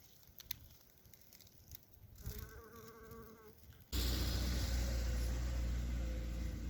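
An insect buzzing briefly, then a sudden switch to a loud, steady low rumble.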